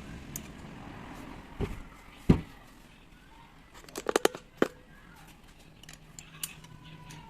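Knocks and metal clinks of parts and tools being handled while a rotary hammer is taken apart. There is a heavy thud about two seconds in, then a quick run of ringing metallic clicks near the middle and one more click just after.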